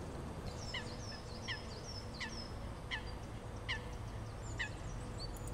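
A bird calling six times, each call a short high note dropping in pitch, about once every three-quarters of a second, over a faint steady outdoor hum.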